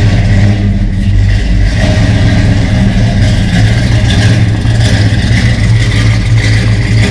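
Car engine with a performance camshaft idling loudly and steadily, the cam's uneven idle plain to hear.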